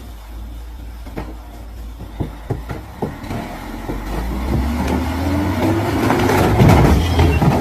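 A heavy vehicle's engine running with a low rumble and a few sharp knocks, then revving, its pitch rising and the sound growing louder toward the end.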